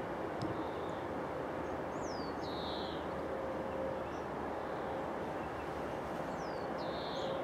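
A small bird calling twice, each call a quick falling whistle followed by a short buzzy note, over a steady low background rumble of distant rail and town noise.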